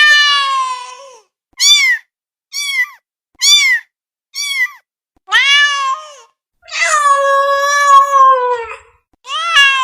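Domestic cat meowing loudly, about eight separate meows. A long one comes first, then four short ones about a second apart, then longer drawn-out meows, the longest held for about two seconds.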